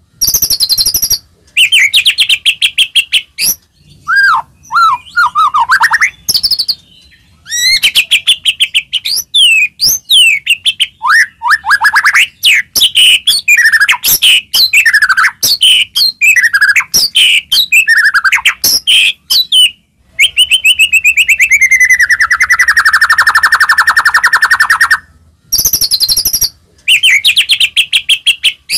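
White-rumped shama (murai batu) singing loudly in rapid, varied phrases: fast rattling trills of repeated notes, sweeping whistles and long buzzy rattles, broken by short pauses. This is the agitated 'fighter' song used to goad other shamas into singing.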